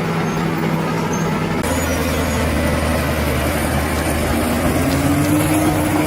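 Bulldozer's diesel engine running steadily, with an abrupt change in its sound about a second and a half in and a whine rising slightly in pitch near the end.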